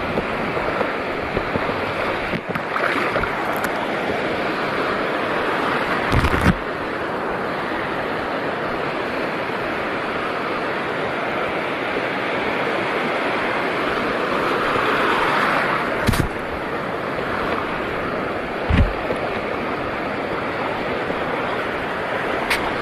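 Seawater washing and lapping steadily, with wind on the microphone and three brief thumps spread through the stretch.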